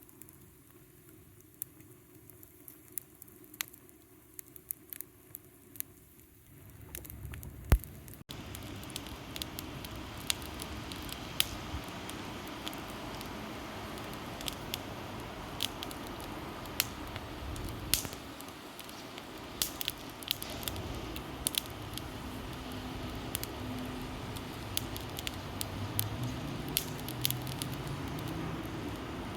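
Wood fire of pruned avocado branches and scrap lumber crackling, with frequent sharp pops over a steady hiss. It is quieter at first and jumps louder about eight seconds in.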